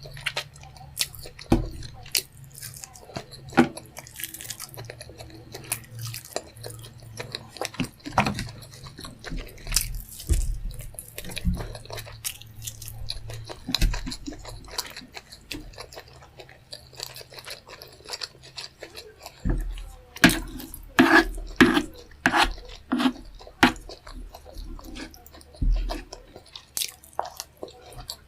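Close-miked eating sounds: chewing with wet lip smacks, mouth clicks and occasional crunches, growing denser about twenty seconds in.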